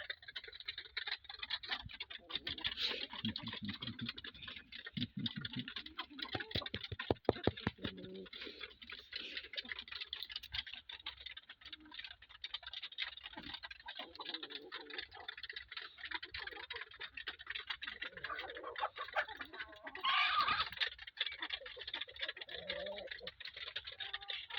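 Chickens pecking at scattered feed: a dense run of small, irregular taps, with a louder flurry about twenty seconds in.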